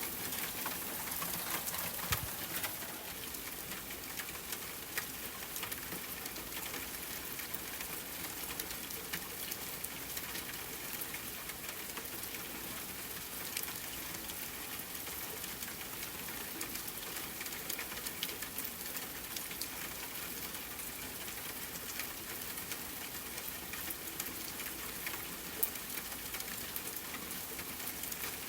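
Rain falling steadily on a tent, with scattered crackles and pops from a campfire; a sharper pop comes about two seconds in.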